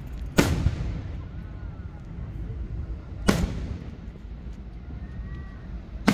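Aerial firework shells bursting: two loud booms about three seconds apart, each trailing off in echo, and a third just as it ends, over a steady low rumble.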